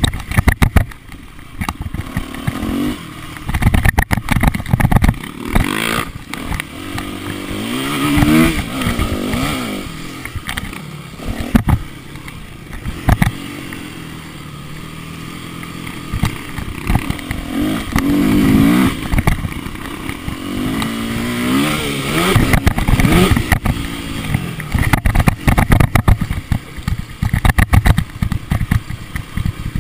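Motocross bike engine revving up and down over and over, its pitch climbing and dropping every few seconds, with loud sharp knocks and clatter mixed in throughout.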